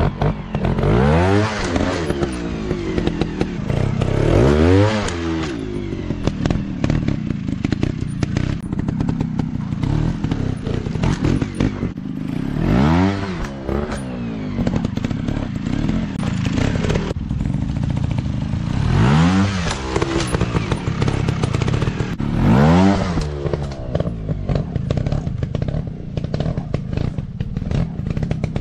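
Dirt bike engines revving hard in repeated bursts, the pitch sweeping up and falling back about five times, with steady running between. Clatter and knocks sound throughout.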